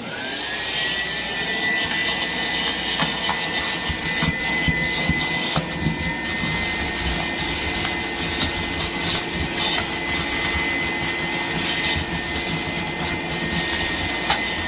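Vacuum cleaner switched on, its motor whine rising as it spins up in the first second, then running steadily to clean up after the repair work. Occasional small clicks come from debris being sucked in.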